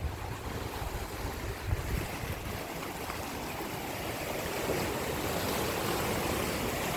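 Floodwater of a swollen river rushing past in a steady roar, with wind buffeting the microphone in the first couple of seconds.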